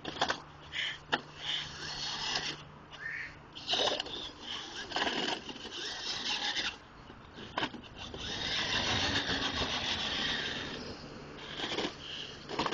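Hard plastic wheels of a Spider-Man ride-on toy truck rolling and scraping over the driveway surface, in uneven rasping spells with a longer steady stretch about two-thirds of the way through.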